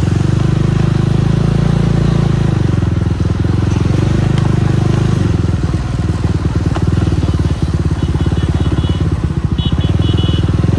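Jawa 42 Bobber's single-cylinder engine running steadily under way, its exhaust pulses even, with the engine speed dipping slightly a couple of times. Short repeated high beeps join in near the end.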